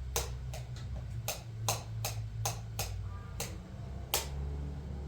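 A series of light, sharp taps or clicks at an uneven pace of about two a second, over a steady low hum.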